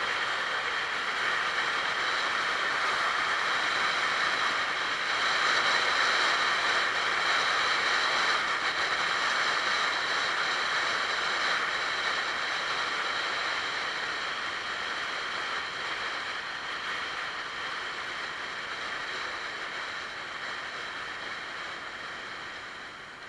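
Yamaha Axis 90 two-stroke scooter being ridden at speed: steady engine and drive-belt running mixed with wind and road noise, fading gradually over the second half.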